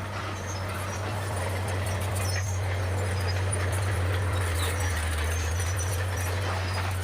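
Bulldozer's diesel engine running steadily with a low drone.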